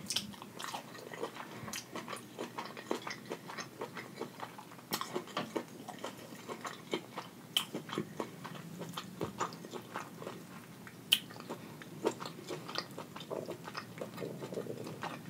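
Close-miked wet chewing of buttery shrimp: a steady run of small, sharp mouth clicks and smacks.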